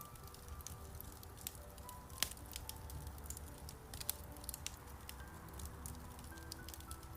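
Wood fire crackling in a fireplace, with frequent sharp pops over a low steady rumble; one louder pop a little past two seconds in. Soft, slow piano notes play quietly underneath.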